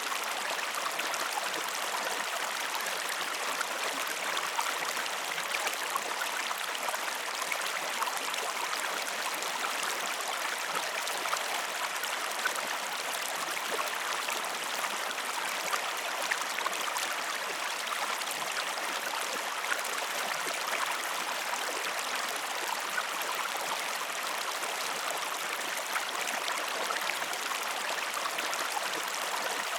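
Flowing water, as of a stream running, as one steady, unbroken rush with fine splashing detail.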